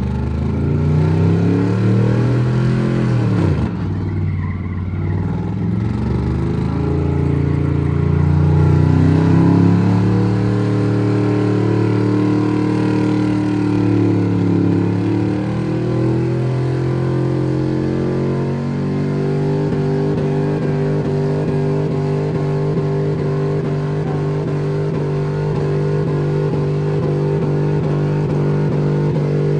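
A vehicle engine revving: its pitch drops and climbs again a few times, then it is held at a steady high rev for the last ten seconds or so.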